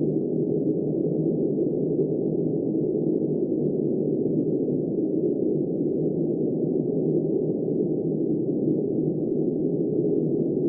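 Steady, deep, muffled rush of wind noise with no gusts, rain or other events, all its sound sitting low with the highs cut away.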